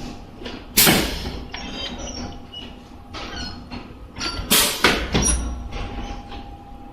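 High-frequency embossing machine working: several sharp metallic clunks, the loudest about a second in and two more close together near the five-second mark, with lighter clinks between them and a faint steady hum.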